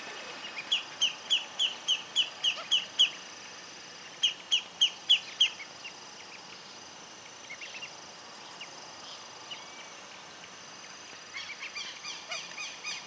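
Bird calls: runs of short, high, clipped notes repeated about three times a second, a run of eight and then a run of five in the first half, scattered fainter notes in the middle, and a quicker run starting near the end.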